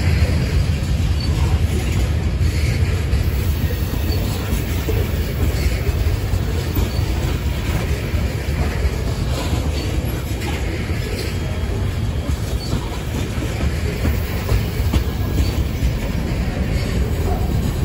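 Freight train's tank cars and covered hoppers rolling past: a steady low rumble of steel wheels on rail with scattered clacks.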